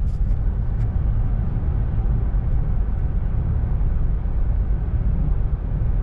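A steady low rumble of noise with no distinct events, with a couple of faint clicks in the first second.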